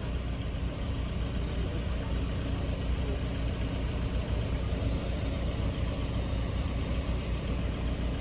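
Engine idling, a steady low hum with no change in pitch or level.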